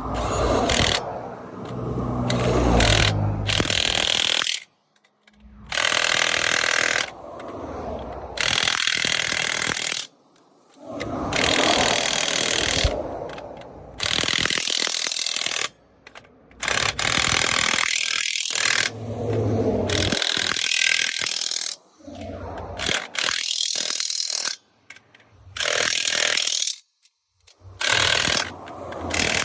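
Impact wrench run in repeated bursts of a few seconds each on a semi truck's wheel lug nuts while a blown tire is changed. Each burst stops abruptly.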